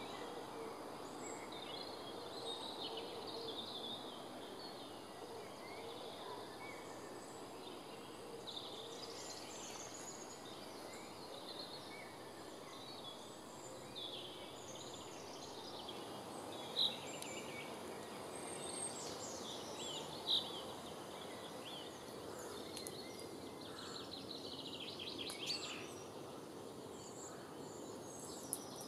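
Wild birds singing and calling, many short scattered chirps and phrases over a steady outdoor hiss. Two brief, louder sounds stand out a little over halfway through, about three seconds apart.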